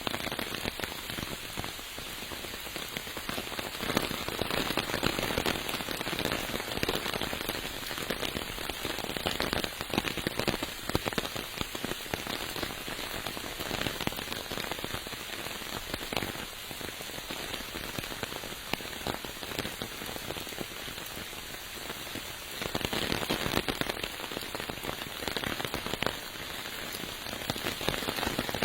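Steady rain falling, with many individual drop hits crackling on nearby surfaces; it grows a little heavier for a few seconds about three quarters of the way through.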